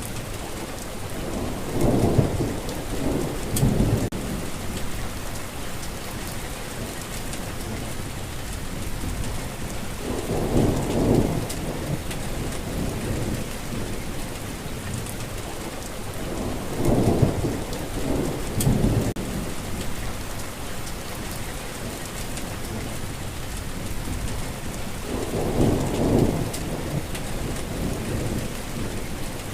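Steady rainfall with several low rumbles of thunder rising and fading, spaced some seconds apart.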